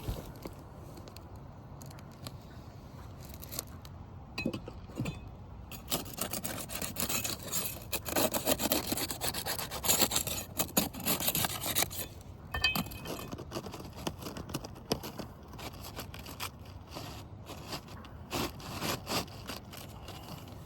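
Asphalt 3-tab shingle scraping and rubbing against the surrounding roof shingles as it is worked into place, with a dense, louder stretch of scrapes from about six to twelve seconds in and a few shorter scrapes near the end.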